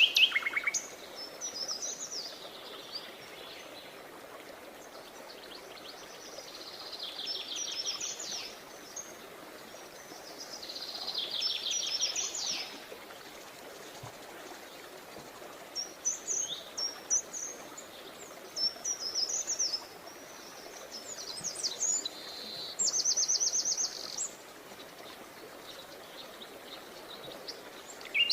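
Songbirds singing in separate phrases of high chirps and rapid trills every few seconds, over a steady faint outdoor hiss.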